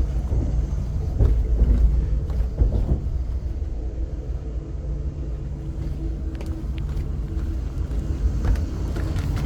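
Passenger train running, a steady low rumble with a constant hum and a few short clicks in the second half.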